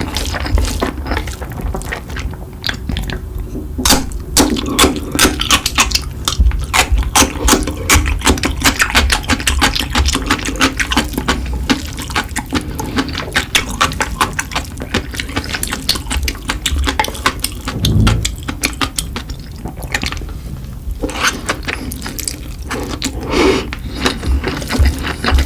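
Close-miked eating sounds: a dense stream of wet chewing and smacking clicks, with slurping.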